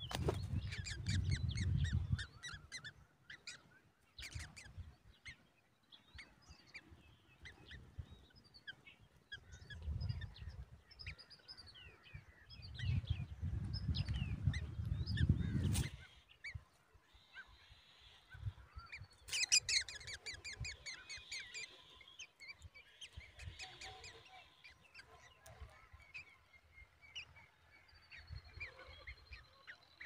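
Wild birds chirping and calling around a nest in short, scattered calls, with a dense, loud run of rapid calls about two-thirds of the way in. A low rumble comes and goes in stretches.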